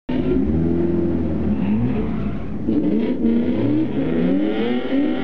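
Inline four-cylinder engine of a Toyota Celica ZZT230, a 1ZZ-FE converted to 2.0 litres, heard from inside the cabin. It revs up and drops back several times, its pitch climbing and falling. The sound cuts in suddenly just after the start.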